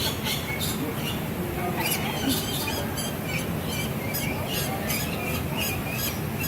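A flock of lorikeets squawking and screeching, many short, harsh, high-pitched calls overlapping in rapid succession.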